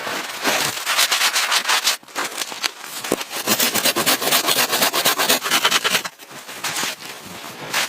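Rough rasping and scraping, many quick strokes in runs, with short breaks about two seconds in and about six seconds in.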